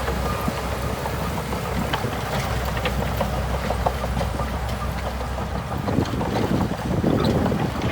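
Shantui DH17C2 bulldozer's diesel engine running steadily, with a shift in its low note about six seconds in.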